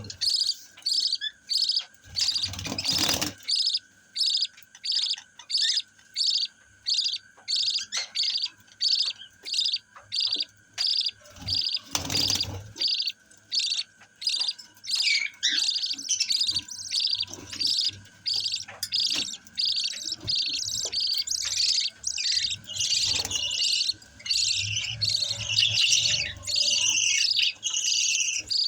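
Lovebird chicks chirping in a steady series of short high calls, about two a second, becoming busier and more varied in the second half. Two brief rustles about two and twelve seconds in, and a faint steady whine underneath.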